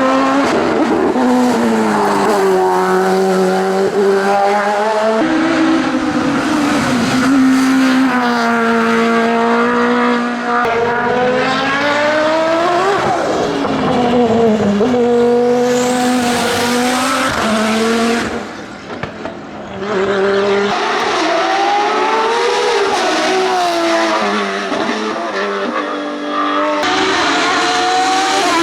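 Racing cars at full throttle on a hillclimb, the engine pitch climbing through each gear and dropping back at each upshift. The sound changes suddenly several times, as one car gives way to the next, and there is a short lull about two-thirds of the way through.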